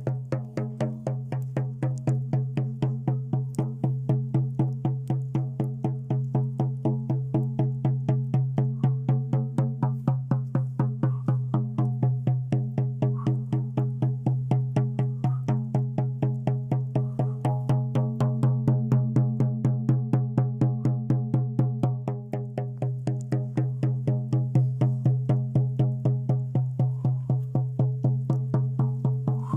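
A drum beaten in a fast, even rhythm of about four strokes a second, over a steady low sustained hum.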